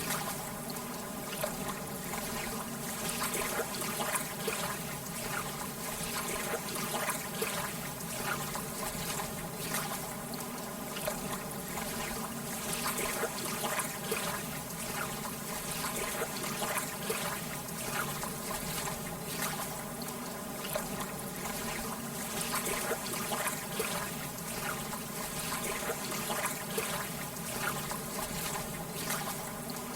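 Lake water lapping in small waves: a steady wash with frequent little splashes and trickles.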